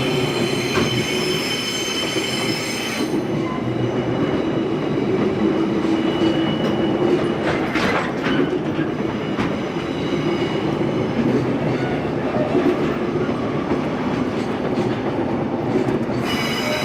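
A train running past on the line: a continuous rumble of wheels on rail with occasional knocks. A high whine of several steady tones sounds over the first three seconds and again near the end.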